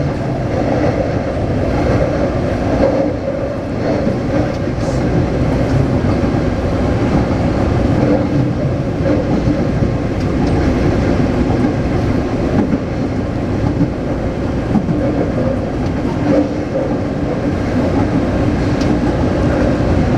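Taipei Metro C381 electric train running between stations, heard from inside the car: a steady rail rumble with a held motor hum.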